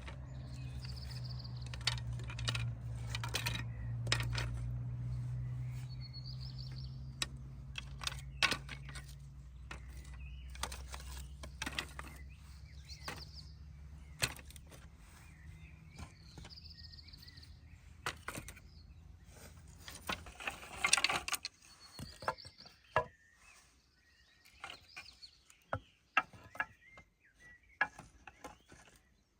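A bird calling with a short chirp every few seconds, over scattered sharp clicks and knocks of handling. A low steady hum runs underneath and fades out about two-thirds of the way through.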